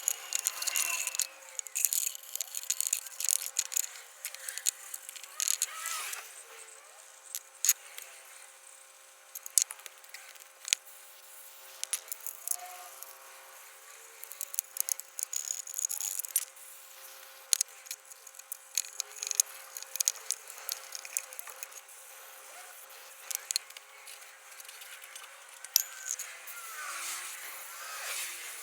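Irregular metallic clicks, clinks and knocks of hand tools and small parts on metal, as when working on an engine's valve cover.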